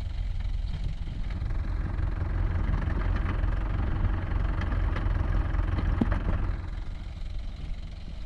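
Tractor diesel engine running steadily, growing louder and busier from about two seconds in, then easing back near the end, as it works under load in the mud.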